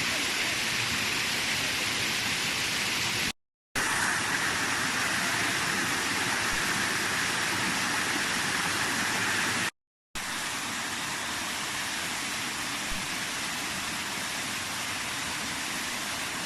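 Steady rushing of water from a waterfall, an even hiss of noise that cuts out abruptly twice for a moment.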